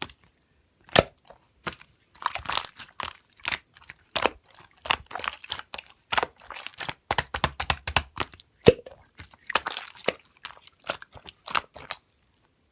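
Slime being squeezed and pressed by hand, making irregular crunchy crackles and sharp clicking pops in quick clusters that stop near the end.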